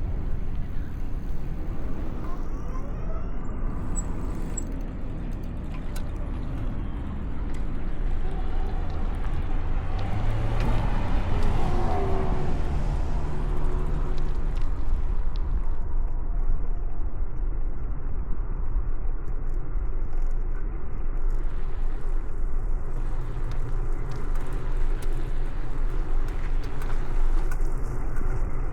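Road traffic on a city street, a steady low rumble with vehicles going by; one passes louder about halfway through.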